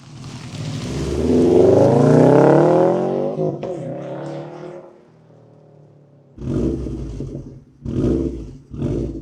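2018 Subaru STI's turbocharged 2.5-litre flat-four revved through its aftermarket exhaust. One long rev rises for about two seconds and falls back to idle, then three quick throttle blips come in the last few seconds.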